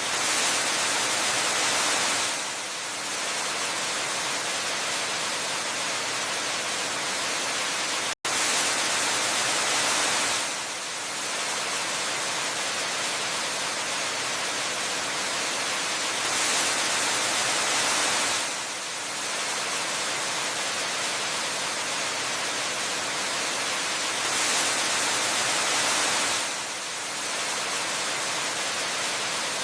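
Steady, hissing rush of a waterfall, which swells brighter roughly every eight seconds like a repeating loop. The sound cuts out for an instant about eight seconds in.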